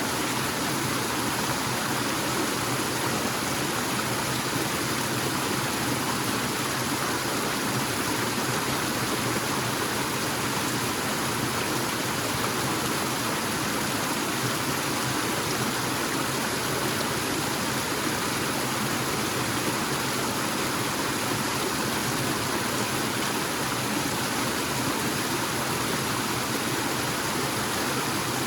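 Small forest waterfall, water falling and rushing steadily.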